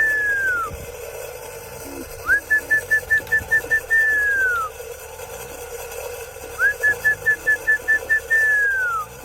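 Whistled feed call to bring racing pigeons into the loft. It rises into a quick run of about eight short, even pips, then ends in a long falling note, and repeats about every four seconds.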